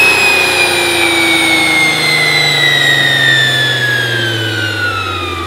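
Nissan GT-R's twin-turbo V6 winding down on a chassis dyno after a full-throttle pull. The engine note and a strong high whine fall steadily in pitch together, growing slowly quieter as the car coasts down.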